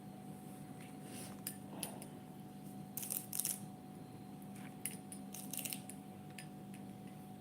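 Faint scattered clicks and light clinks, a small cluster about three seconds in and another near six seconds, over a steady low hum.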